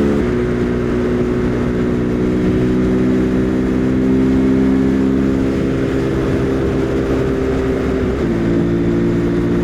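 Husqvarna Svartpilen 401's single-cylinder engine running steadily at cruising speed, with wind rumble. The engine note steps down slightly about eight seconds in.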